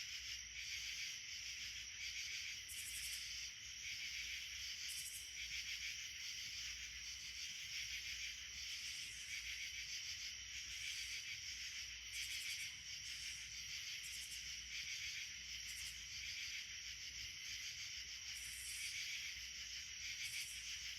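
Steady chorus of insects such as crickets or katydids, a continuous pulsing trill, with short higher buzzes breaking in every second or two.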